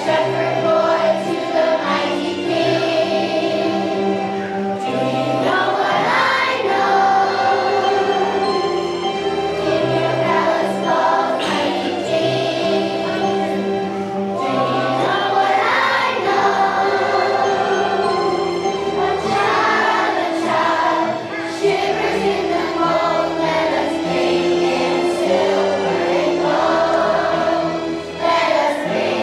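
Young children's choir singing a holiday song together over instrumental accompaniment, continuously.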